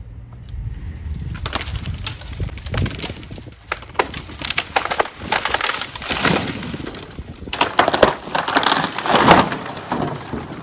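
A storm-cracked tree's wood splintering and cracking as it is pulled over, with a run of sharp snaps building into a loud spell of crackling and crashing branches about three-quarters of the way through.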